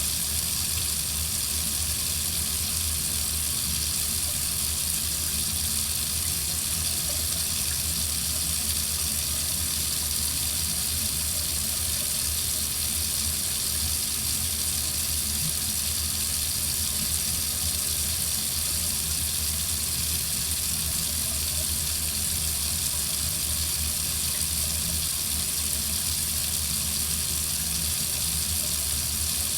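Water running steadily from a faucet into a sink, an even hiss that does not change.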